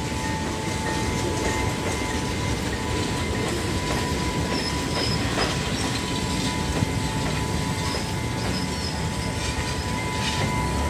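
Passenger train running past a level crossing and moving off, a steady low rumble with a few short, faint wheel squeals about halfway through and again near the end. A steady high tone sounds over it.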